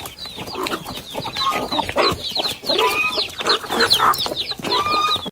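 Chickens clucking, many short overlapping calls in quick succession; the sound cuts off abruptly at the end.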